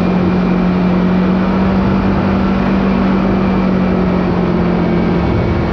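Kawasaki KRX 4 side-by-side's engine running at a steady, unchanging pitch while cruising, with a haze of tyre and wind noise, heard from on board.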